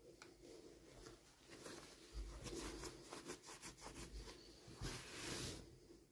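Faint rustling and light clicks of toy packaging being handled and opened, with a longer rustle near the end.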